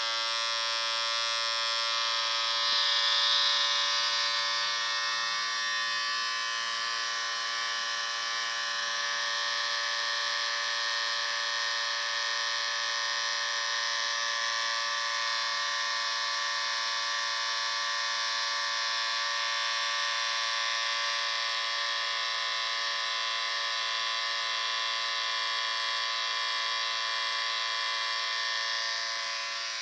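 Electric shaver running with a steady, even buzz, briefly swelling louder and brighter about three seconds in.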